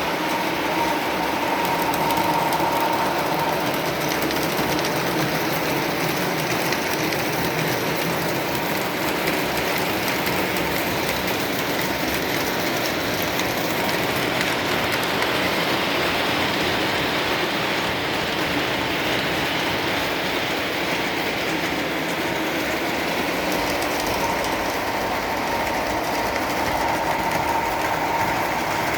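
Lionel O-gauge Santa Fe Warbonnet diesel locomotive set running steadily around the track, wheels clattering over the rail joints with a continuous motor run. A thin steady whine comes up for a moment about two seconds in and again near the end.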